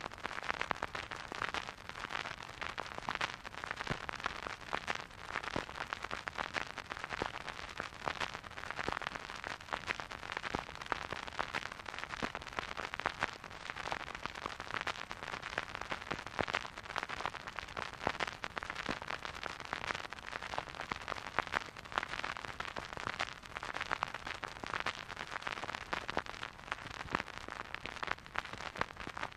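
Vinyl record surface noise from a spinning record player: a steady soft hiss dense with small crackles and pops.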